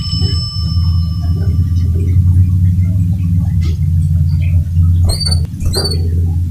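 Canary giving two short, high, falling chirps near the end over a loud steady low rumble; a steady high tone stops about two seconds in.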